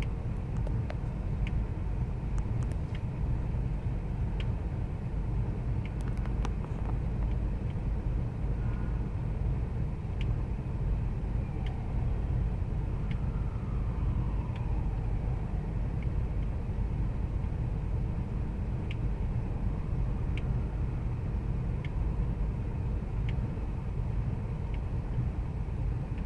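2000 Ford Expedition's 5.4-litre V8 idling roughly, a steady low rumble with faint scattered ticks.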